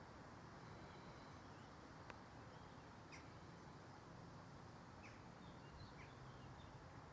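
Near silence, with faint, scattered bird chirps and a single small click about two seconds in.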